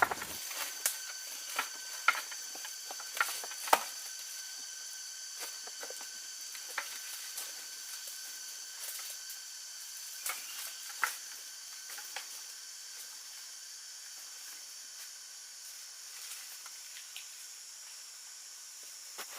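Steady high-pitched insect drone, with scattered sharp clicks and snaps that come thickest in the first few seconds and thin out later.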